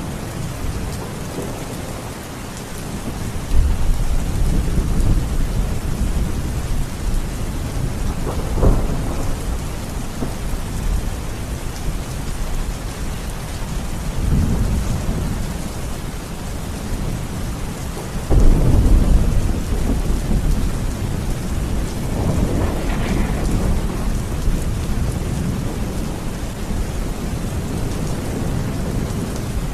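Steady heavy rain with several rolls of thunder. Deep rumbles rise sharply about 3 seconds in, near 9 seconds, around 14 seconds and, loudest, around 18 seconds, with another rolling peal a few seconds later.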